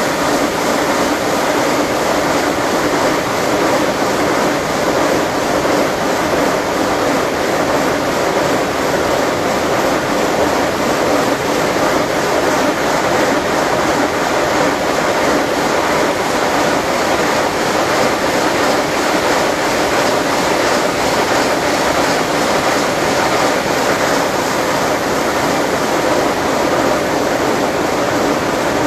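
Marble gang saw running: a steady, really loud machine noise that goes on without a break.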